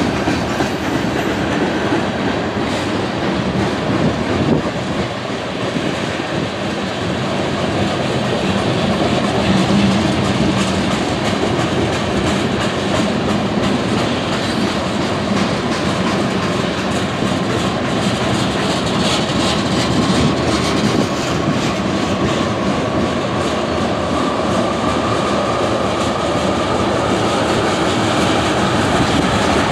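Freight train cars rolling steadily past at speed, a continuous loud rumble with wheels clacking over the rail joints. A faint rising whine comes in during the last third.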